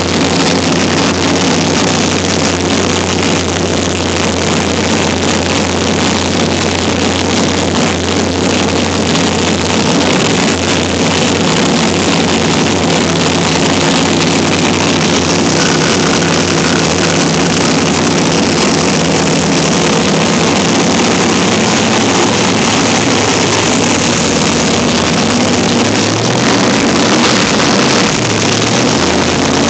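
Big-block Chevrolet 511-cubic-inch V8 running on an engine dyno, held at a steady speed, with its pitch wavering briefly near the end.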